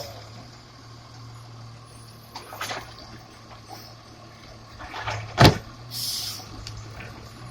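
Garbage truck engine running steadily, with a few clanks and one loud bang about five and a half seconds in, followed by a short hiss.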